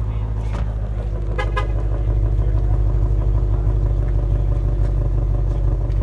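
Ford Shelby GT350's 5.2-litre flat-plane-crank V8 idling through its exhaust, a steady low rumble that grows slightly louder about two seconds in. A short high-pitched sound cuts in briefly about a second and a half in.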